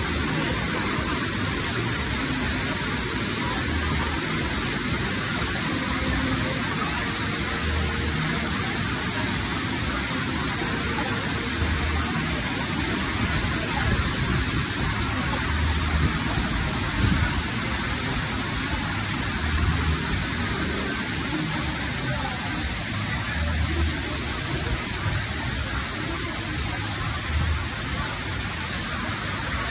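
Heavy tropical rain pouring steadily, with water streaming off a shop awning onto the flooded pavement: a dense, even hiss of rain.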